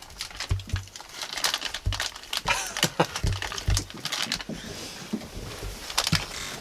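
Close rustling and crinkling, broken by irregular clicks and scattered low thumps.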